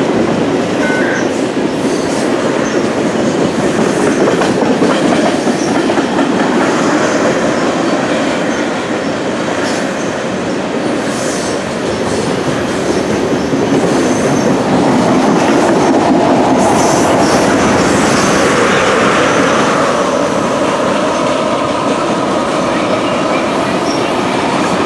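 Freight train of tank cars and covered hoppers rolling past over the rails: a steady rumble with wheel clicks over the rail joints. A thin wheel squeal joins in during the second half.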